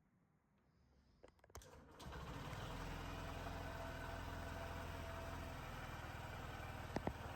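Honda CB125F's single-cylinder four-stroke engine starting about two seconds in, after a few clicks, then idling steadily. Two sharp clicks come near the end.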